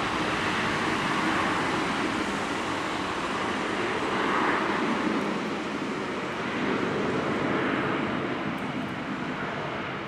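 Airbus A321 jet engines at takeoff power, a steady rushing roar that slowly fades with a few gentle swells as the aircraft moves away.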